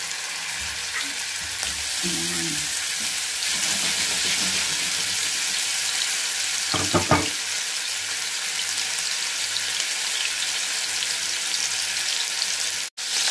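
Meatballs sizzling as they fry in olive oil in a nonstick frying pan: a steady hiss that grows louder over the first few seconds as more meatballs go into the oil. The sound cuts out for an instant near the end.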